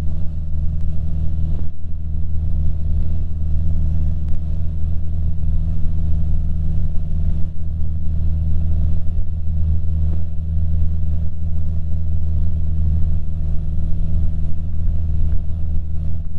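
Cessna 150's Continental O-200 four-cylinder engine and propeller droning steadily in cruise flight, a constant low hum with no change in power.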